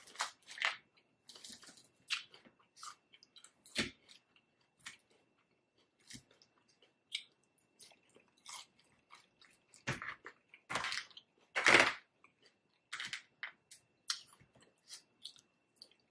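Close-miked chewing and crunching of crunchy food in irregular bites and chews, loudest about two-thirds of the way through.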